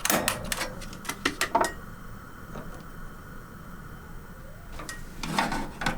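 Gas stove burner being lit: a series of sharp igniter clicks in the first second and a half, then a quieter steady hiss as the burner runs.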